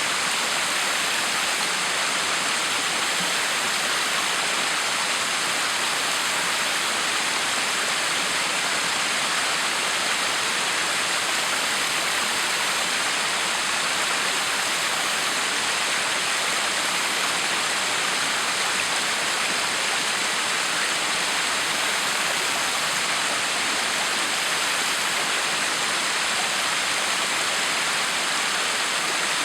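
Backyard waterfall: water pouring and splashing in a steady, unbroken rush.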